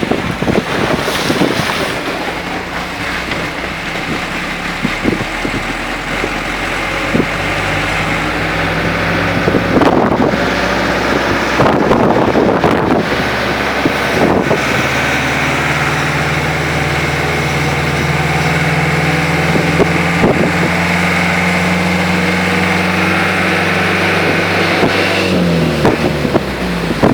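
A car running along a wet road in the rain, a steady engine hum under a hiss of tyre and rain noise. Near the end the engine note falls as the car slows.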